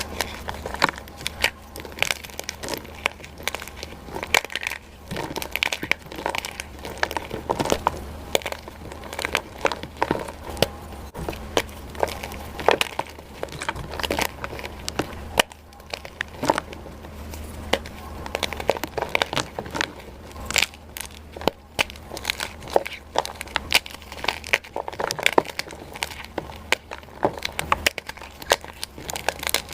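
Dyed gym chalk being crushed: a dense, irregular run of crunches and crackles.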